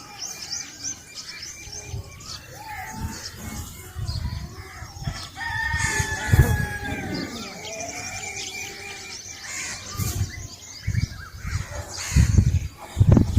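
Birds chirping and calling in a village at sunrise, with many short chirps throughout and one longer drawn-out call about halfway through. Several low thuds come toward the end.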